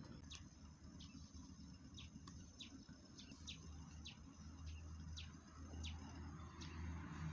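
Faint bird calls: short chirps that slide downward, repeated roughly every half second, over a low steady hum.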